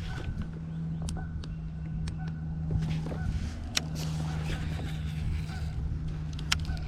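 Electric trolling motor running with a steady hum that cuts out briefly about halfway through and then resumes. A few sharp clicks sound over it, the loudest near the end.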